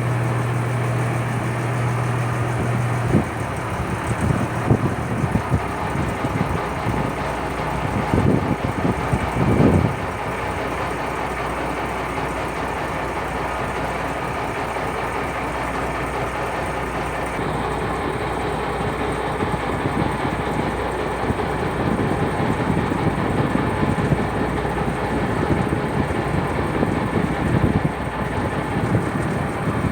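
Purse seine fishing boat's engine running steadily. A low hum drops out about three seconds in, and irregular knocks follow over the next several seconds.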